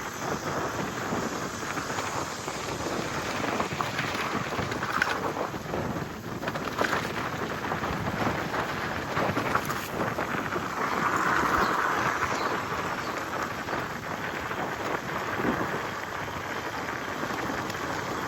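E-bike riding on a dirt trail through brush: a continuous noisy rustle of tyres and vegetation, with many scattered clicks and knocks and a louder stretch about two-thirds of the way through.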